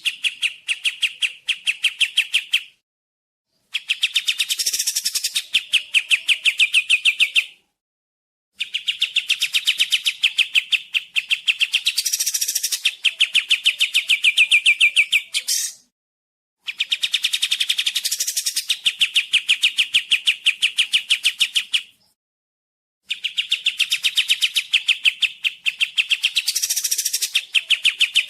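Kapas tembak (a bulbul) calling in repeated phrases, each a fast rattling run of about ten sharp notes a second lasting three to seven seconds, with short silent gaps between phrases.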